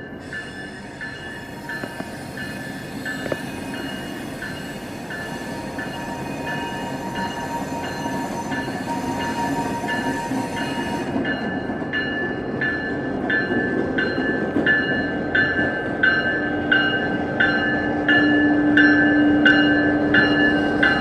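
Freight train approaching, its rumble growing steadily louder, while a railroad crossing bell rings about twice a second throughout. A steady low tone joins in near the end as the train draws close.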